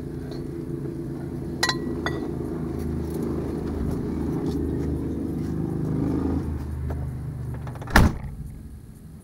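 Car engine running steadily, with a few light clicks about two seconds in and a heavy thump near the end, after which the engine sound fades.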